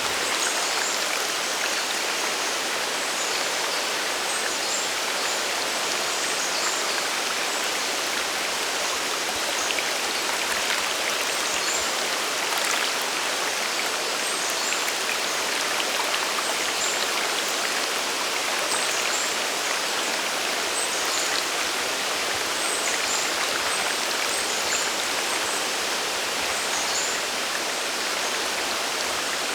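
Water of a mountain waterfall and its river rushing and splashing, a steady even hiss with no change throughout.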